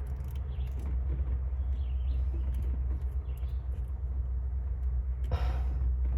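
Steady low rumble, with faint small clicks and a brief rustle about five seconds in.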